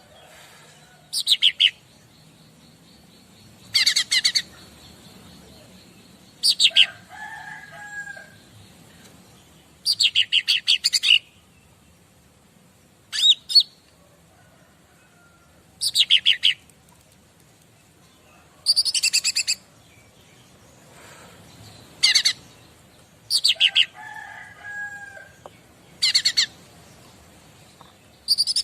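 Cica ranting songbird giving short, rapid, high-pitched chattering trills, each under a second long, repeated about every two to three seconds. A few fainter, lower whistled notes sound between them.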